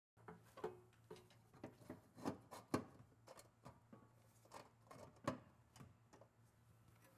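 Irregular sharp clicks and metallic knocks, one or two a second and loudest a little under 3 s in and again about 5 s in, from tools and exhaust parts being handled during an exhaust install. A faint steady low hum runs underneath.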